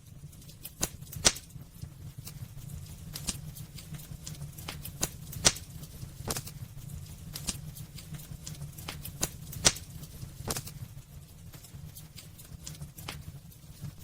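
Wood fire burning in a fireplace: irregular sharp crackles and pops, three of them much louder, over a steady low rumble.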